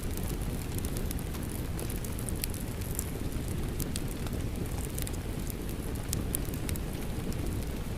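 Wood fire crackling in a fireplace, with irregular sharp pops, mixed with the steady noise of falling rain.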